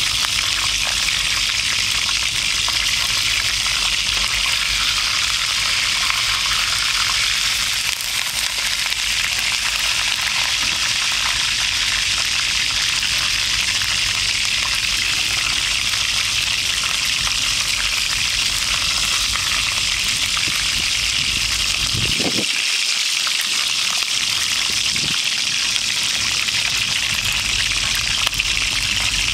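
Whole chicken frying in hot oil in a skillet, a steady, loud sizzle.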